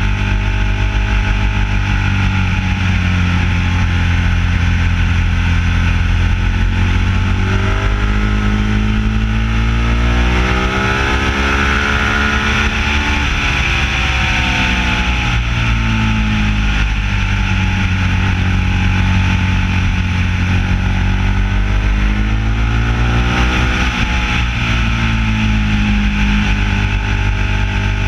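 Ducati 1199S motorcycle's twin-cylinder engine running under way, heard from a mount on the bike. Its pitch holds steady, climbs from about eight seconds in to a peak a few seconds later, drops back, then climbs again near the end.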